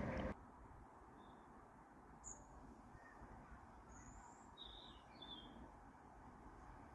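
A train's noise cuts off abruptly at the very start, leaving quiet open-air ambience with a few faint, short bird chirps scattered through it.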